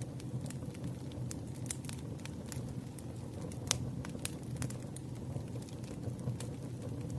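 Campfire burning: wood crackling with irregular sharp pops over a steady low rumble, one louder pop a little before the middle.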